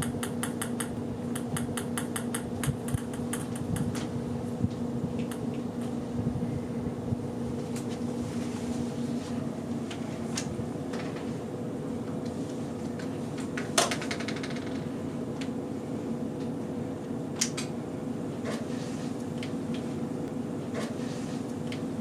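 A steady electrical or fan-like hum, like a fan or air conditioner, with scattered light clicks and knocks. A quick run of clicks comes at the start, and the sharpest knock falls about 14 seconds in.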